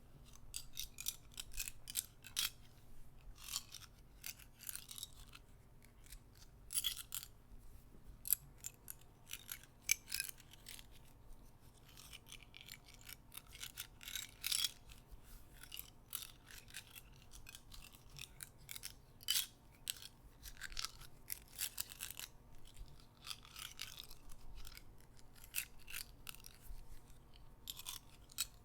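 Close-miked soft clicking: small sharp clicks, single and in quick irregular clusters of several a second, from small objects handled for ASMR.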